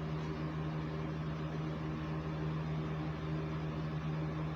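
Steady low electrical or mechanical hum with an even hiss, unchanging throughout: the recording's background noise.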